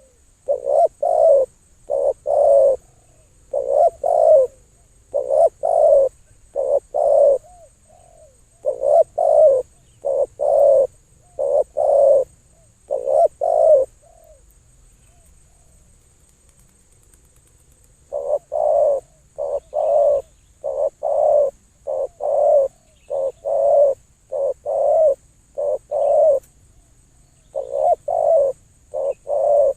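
A dove cooing over and over in runs of low hooting notes, falling silent for a few seconds about halfway through before starting again.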